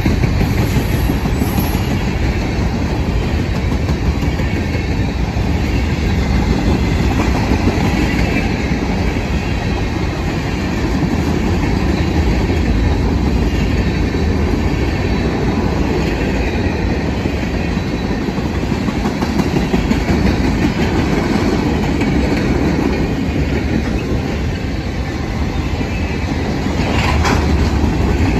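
Freight train's covered hopper cars rolling past: steel wheels clacking over the rail joints with a steady rumble.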